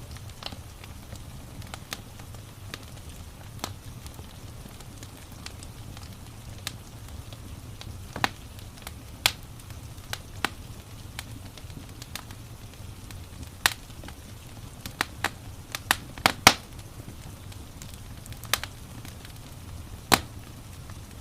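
Wood fire in a fireplace crackling: sharp, irregular pops over a steady low rumble, with a quick run of louder pops about sixteen seconds in and another loud one near the end.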